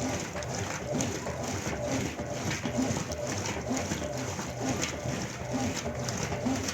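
Brastemp washing machine running, with a sound that repeats about every two-thirds of a second.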